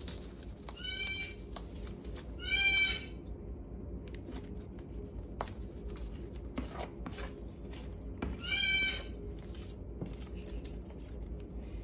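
Cardboard paper towel tube being shredded by a Moluccan cockatoo's beak: a run of small clicks and crackles. A parrot gives three short calls over it, about a second in, near three seconds and near nine seconds, the last two the loudest.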